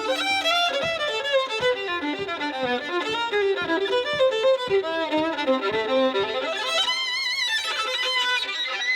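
Solo violin playing a fast run of short, separate notes that step down in pitch and then climb back up, with a high wavering passage about seven seconds in. It is an unusual effect drawn from the violin, heard as something different from its ordinary sound.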